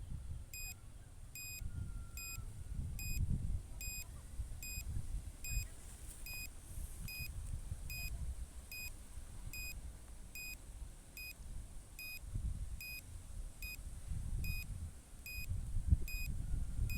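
Low-battery warning beeping for an SJRC F11s drone, a short high beep repeating about every 0.8 s. Under it, a gusting low rumble of strong wind buffeting the microphone.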